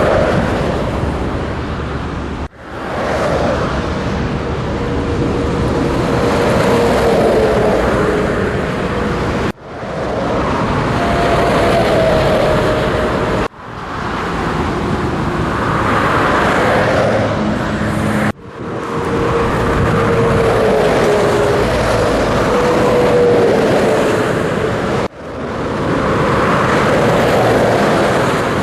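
Scania truck driving on the road: steady engine and road noise with a faint drifting whine, broken about five times by a brief sharp dip, after which the sound builds back up.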